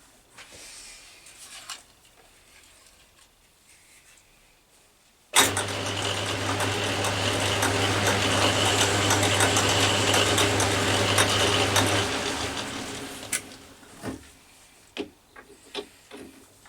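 A workshop machine's electric motor switched on with a sudden start about five seconds in, running steadily with a low hum and hiss for about six and a half seconds, then switched off and running down, followed by a few light knocks.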